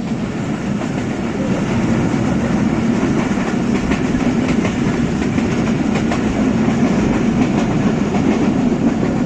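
Passenger train running at speed on the rails: a steady, loud wheel-and-track rumble with the light clickety-clack of wheels crossing rail joints.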